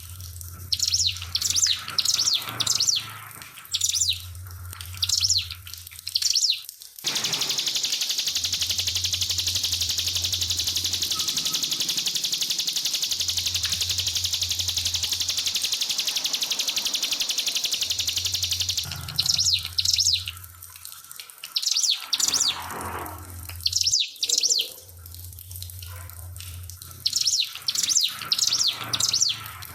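Ciblek (prinia) birdsong: fast bursts of high, sharp chirping notes, with a continuous high buzzing trill of about twelve seconds in the middle, over a background of trickling water.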